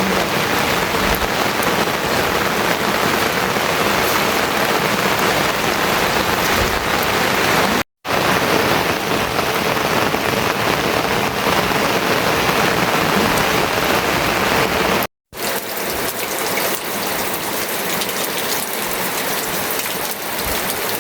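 Steady heavy rain falling. The sound cuts out completely for a moment twice, about eight and fifteen seconds in.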